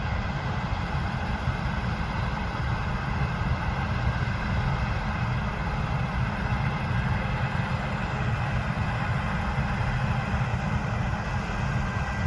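Large diesel harvest machinery running steadily, most of the sound low-pitched and unchanging.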